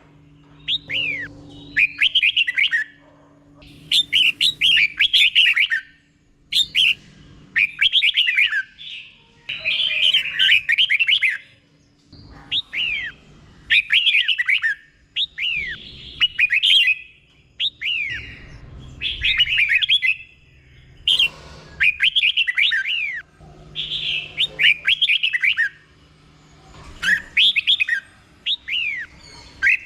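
Red-whiskered bulbul singing, repeating its short phrase over and over in the doubled style prized by Thai bird keepers. Each phrase is a quick run of falling whistled notes, coming every second or two with short pauses between.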